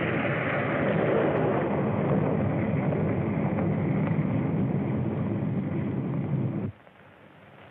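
Loud, steady rumbling vehicle noise on an early sound-film soundtrack, cut off abruptly a little before the end, leaving only faint film hiss.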